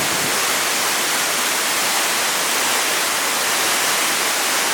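Waterfall crashing into its pool close by: a loud, steady rushing hiss of falling water and spray.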